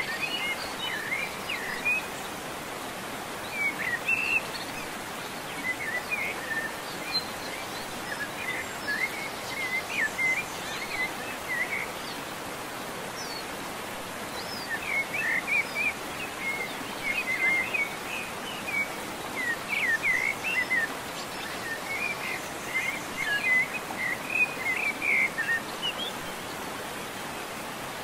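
Small birds chirping and twittering in scattered bursts over a steady background hiss, like an outdoor nature ambience.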